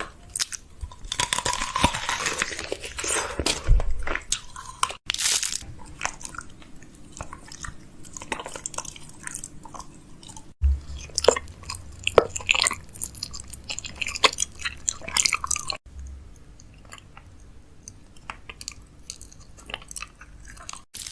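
Crunchy snacks and packaging being handled, with dense crackling, rustling and crunching. The sound breaks off sharply three times where short clips are cut together.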